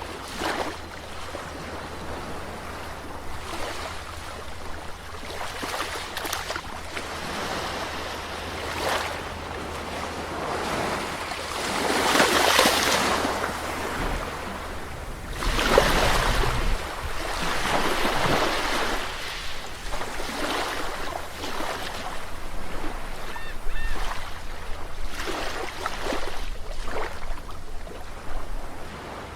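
Sea waves breaking and washing up on the shore, a continuous rushing surf that swells and ebbs, with the biggest surges about twelve and sixteen seconds in.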